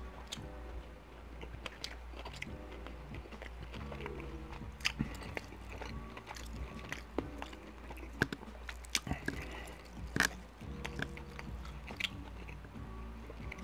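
Close-miked mouth sounds of a person chewing a bite of steak: wet chewing with many sharp short clicks scattered throughout. Faint background music with held notes plays underneath.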